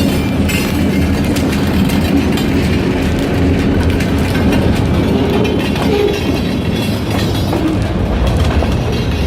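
Freight train rolling past close by, its wheels clacking steadily over the rail joints.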